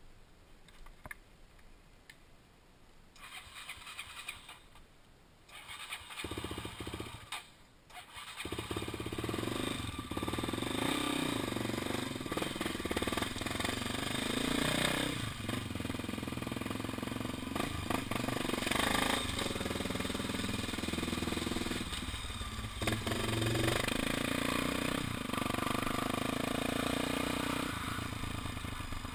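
Honda XR 250 Tornado's single-cylinder four-stroke engine starting: it fires about six seconds in, dips briefly, then catches just after eight seconds and runs steadily, its pitch shifting a little.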